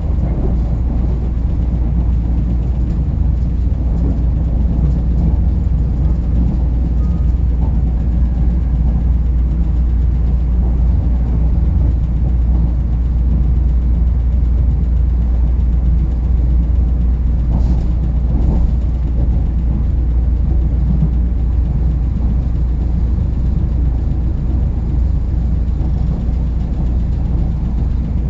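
Nuriro passenger train running along the track with a steady, loud low rumble.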